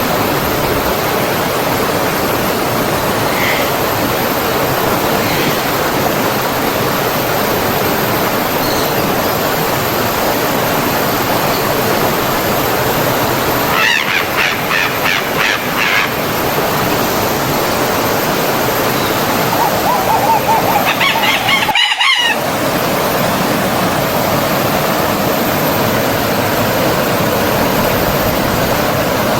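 Steady rush of flowing stream water, like a small waterfall. A bird calls over it twice: a run of quick repeated notes around the middle and another call about two-thirds of the way in.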